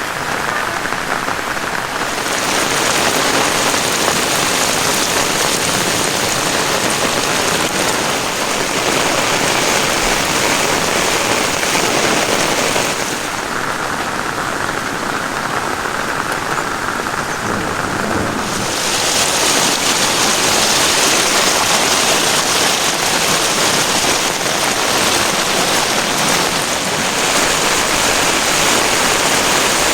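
Heavy rain falling steadily, an even hiss that shifts abruptly a few times between brighter and duller.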